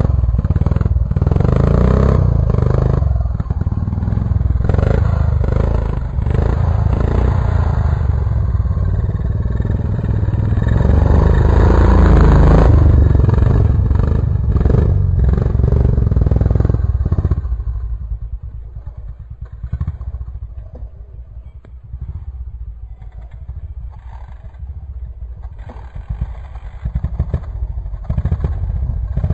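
125cc dirt bike engine running and revving, loud for most of the first 17 seconds, then dropping away to a quieter run before rising again near the end.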